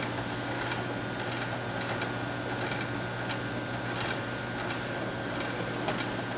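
Steady hum of lab equipment with light clicks about once a second, as the build pad with the printed part is set into the V-Flash 3D printer's washing unit.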